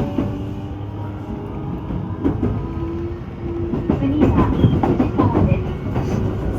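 Electric train running on rails with a steady motor tone that steps up in pitch. From about four seconds in come rapid clicks and short wheel-on-rail squeals.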